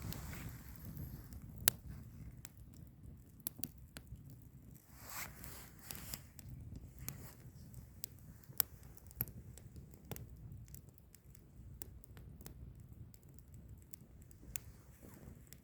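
Burning firewood crackling, with scattered sharp pops over a steady low rush of flame; two pops, about two seconds in and past the middle, are the loudest.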